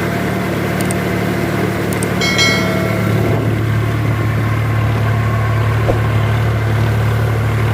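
Sonalika 4×4 tractor's diesel engine running steadily, its low note dropping lower about three seconds in. A short high-pitched tone sounds over it a little past two seconds in.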